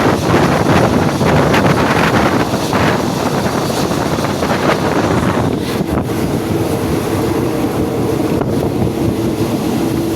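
Rushing wind buffeting the microphone over the running noise of a moving passenger train, with a steady hum coming through about halfway in.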